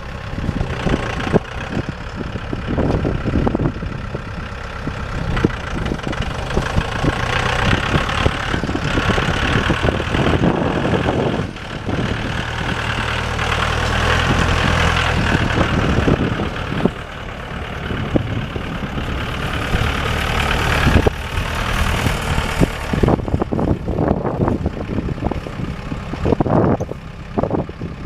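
Diesel engine of a Mahindra 3540 compact tractor running steadily, with irregular knocks and rumbles over it.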